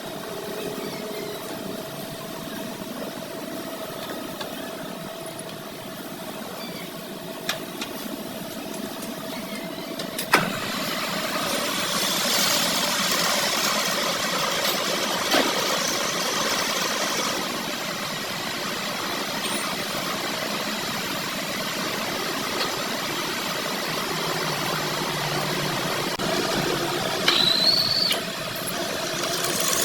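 A machine running steadily, with a few sharp knocks; about a third of the way in it turns louder and harsher, and a short high squeal rises near the end.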